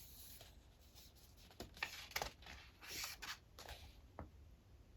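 Colouring book pages being turned by hand: faint paper rustles and light taps, bunched between about one and a half and four seconds in.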